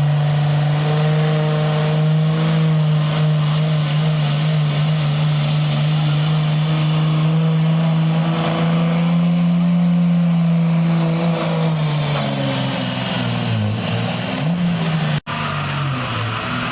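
Pickup truck engine held at high revs under load while pulling the sled, with a steady high whine over the engine note. Near the end the revs sag and fall away as the pull slows, and the sound drops out briefly.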